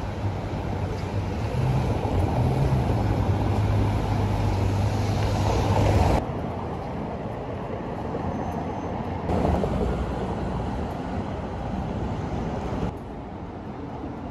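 Touring Superleggera Berlinetta Lusso's Ferrari V12 running at low speed, a steady low hum that grows louder over the first six seconds as the car draws up. After that come short cuts of the engine running softer at idle, each cut abruptly changing the level.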